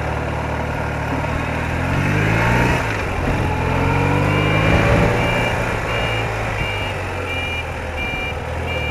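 BMW R80RT motorcycle engine running under wind noise, its pitch shifting up and down in the first few seconds. From about halfway, a short high beep repeats about twice a second.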